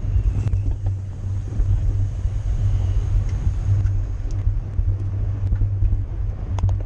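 Wind buffeting the microphone of a camera riding along in a bicycle race: a heavy, fluctuating low rumble, with a few faint sharp clicks.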